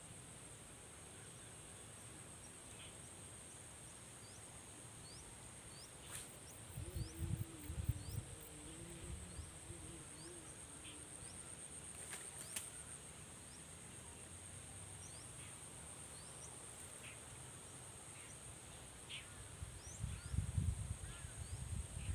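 Steady high-pitched insect drone with short rising chirps repeating over it, and low thumps about a third of the way in and again near the end.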